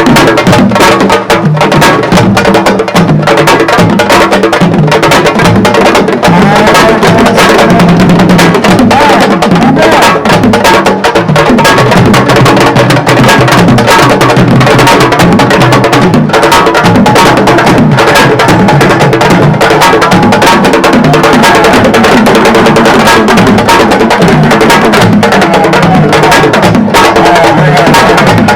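Loud, percussion-heavy music: dense, rapid drum strokes over a steady low beat.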